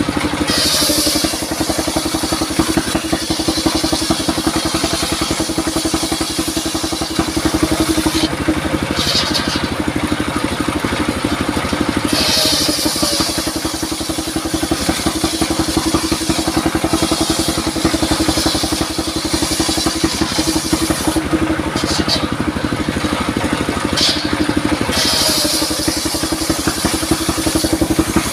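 Engine-driven circular sawmill running steadily, with a throbbing engine and a constant blade tone, while hissy bursts come and go several times as the blade cuts through durian wood.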